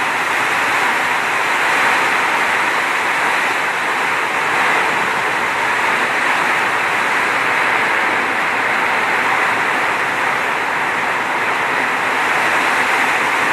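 Steady rush of flowing water, an even hiss with no pauses.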